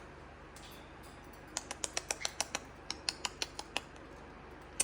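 Green-cheeked conure making a quick run of short, sharp clicks, about seven a second, in two bursts of about a second each starting after a quiet first second and a half.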